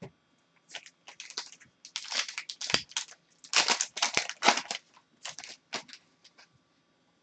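Hockey trading cards and their pack wrapper being handled, a run of short, irregular rustles and scrapes that is busiest in the middle and dies away about six seconds in.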